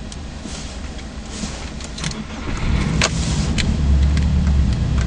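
Car engine running, growing clearly louder about halfway through, with several sharp clicks over it.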